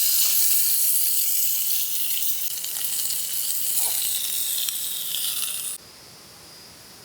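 Food sizzling in a hot pan, a steady hiss with small crackles that cuts off suddenly about six seconds in, leaving only a faint hiss.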